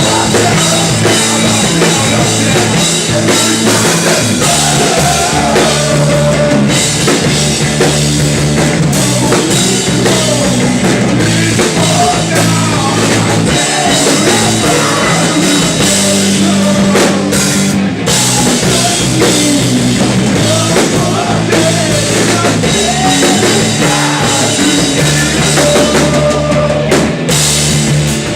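Live rock band playing loudly, with the drum kit prominent throughout.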